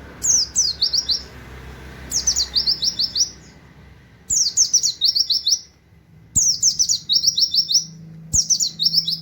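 A pleci (white-eye) singing in quick bursts of rapid, high, downward-slurred 'wit wit' notes in a canary-like style. Each burst lasts about a second and comes about every two seconds, five times.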